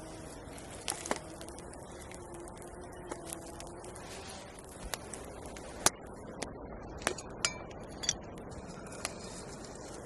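Camp cookware and utensils clinking and knocking: a dozen or so light, irregular metal taps, some ringing briefly, with the sharpest about six seconds in.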